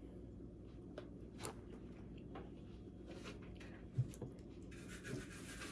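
Faint crunches and clicks of blue crab being eaten and its shell handled, with a short knock about four seconds in. A steady hiss starts near the end.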